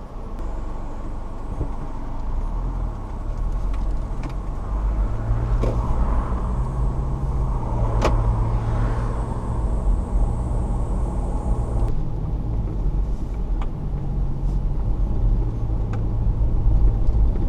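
Car driving: a steady low rumble of engine and road noise, the engine note shifting up and down a little, with a few light clicks.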